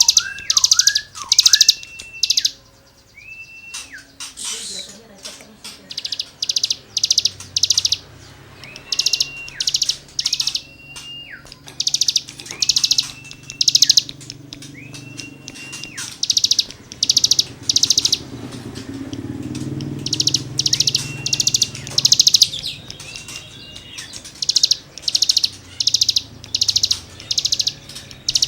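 A cigun songbird singing its rasping 'gesekan' song: runs of short buzzy notes, about two a second, with a thin whistled note sliding in and out between the runs.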